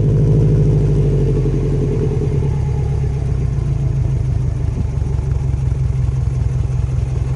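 Subaru Impreza WRX GDA's turbocharged flat-four boxer engine idling through a Kakimoto Kai Regu.06&R rear muffler, with the uneven, pulsing beat of its unequal-length headers.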